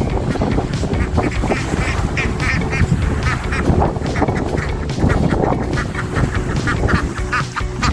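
Khaki Campbell ducks quacking over and over in short, buzzy calls, several a second.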